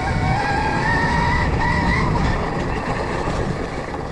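Stark Varg electric dirt bike riding onboard over rough dirt: the motor's high whine rises slowly as the bike speeds up, then eases off, over the rumble of tyres and suspension on the track.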